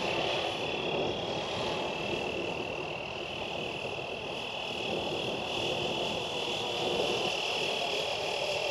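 Fly Wing 450L electric RC helicopter in flight, its motor and rotors making a steady high whine over a rushing noise.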